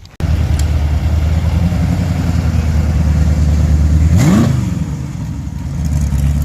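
A car engine idling, blipped once about four seconds in: the pitch rises sharply and drops straight back to idle.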